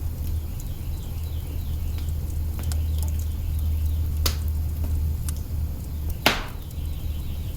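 Wood fire crackling in an open hearth: scattered sharp pops and snaps, the loudest about six seconds in, over a steady low rumble.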